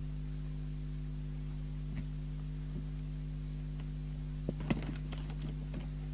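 Steady low mains hum from bench test equipment. Over it come a single small click about two seconds in and a cluster of light clicks and taps near the end.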